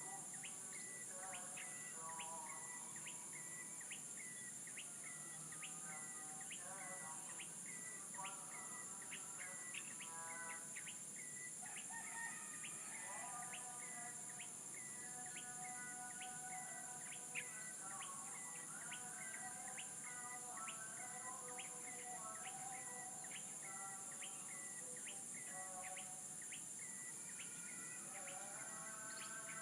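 Birds chirping and calling over a steady high-pitched insect drone, with a short tick repeating about every two-thirds of a second.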